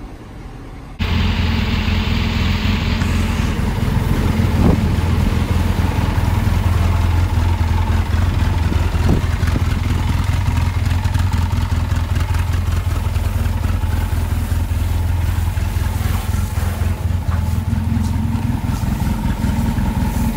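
Lifted 2007 Chevrolet Silverado pickup's engine running steadily while the truck is driven, a constant low drone with a faint steady whine above it. It comes in suddenly about a second in.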